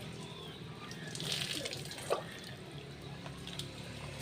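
Rainwater pouring and splashing during a bath, swelling louder about a second in, with a short sharp splash or knock a moment later.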